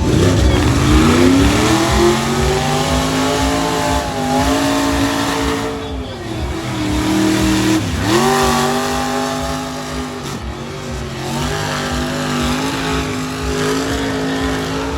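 A large truck engine revving hard, its pitch climbing and holding, dropping sharply about eight seconds in, then climbing again.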